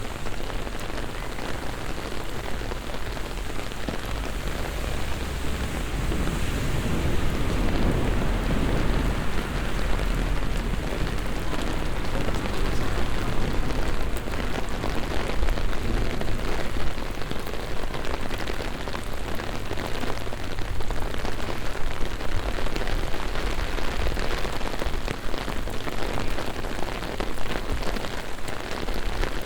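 Heavy rain falling steadily on the city street, a dense hiss of drops hitting the pavement. About seven seconds in, a low rumble swells and fades over a few seconds.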